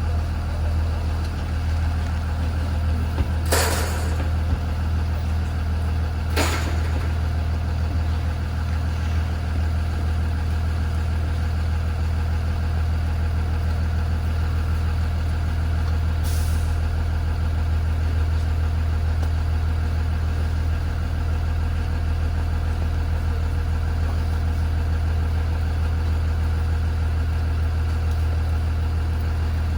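2020 Blue Bird Vision school bus engine idling steadily, with three short air hisses, a few seconds in, about six seconds in and around sixteen seconds in.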